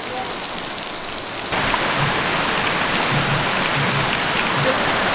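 Steady rain falling, a continuous hiss that gets louder about a second and a half in.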